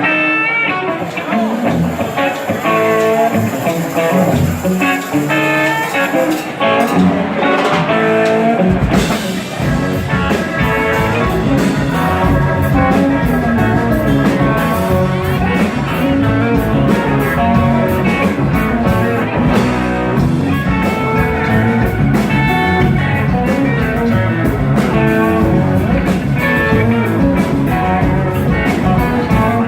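Live rock band starting a song: electric guitar playing an intro alone, then drums and bass join about nine seconds in and the full band plays on without vocals.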